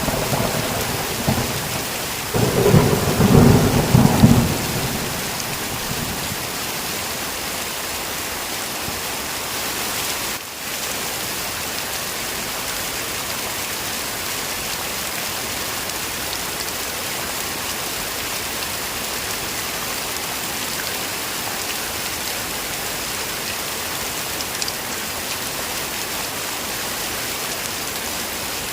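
Heavy rain falling with a rumble of thunder in the first few seconds that dies away about four seconds in. The rain then carries on as an even, steady hiss.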